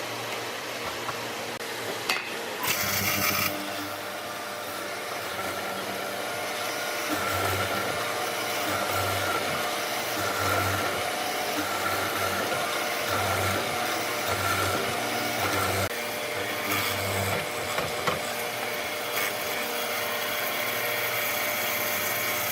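Power tool running on wood, a steady whine with a short louder burst about three seconds in.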